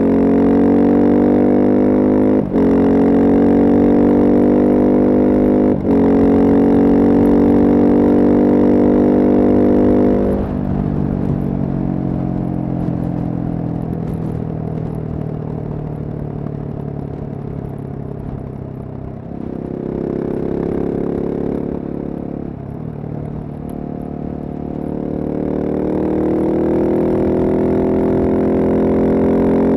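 Husqvarna single-cylinder supermoto engine accelerating hard, its note climbing with two brief cuts that sound like quick upshifts. It then backs off with falling revs, picks up for a moment, and accelerates again before easing off at the very end.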